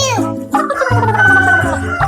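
Background children's music with a steady bass line. From about half a second in, a cartoonish gliding tone falls slowly in pitch over it.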